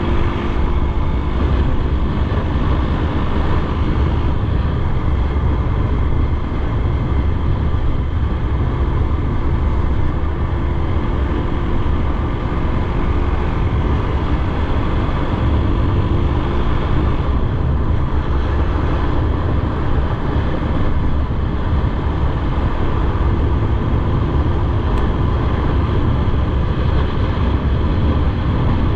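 Motorcycle running steadily under way, its engine note holding an even pitch under a continuous rush of road and riding noise.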